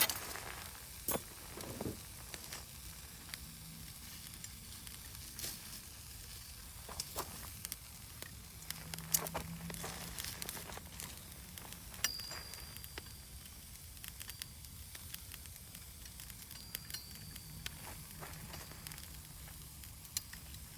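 Wood campfire crackling and hissing, with sharp pops scattered through and a short thin whistle about twelve seconds in.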